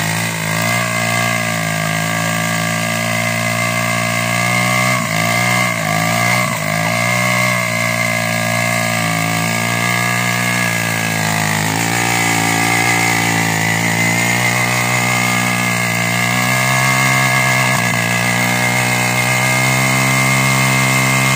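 Loncin 125 pit bike engine held at high revs in a burnout, the rear tyre spinning on asphalt. The revs waver up and down and the sound grows a little louder over the last few seconds.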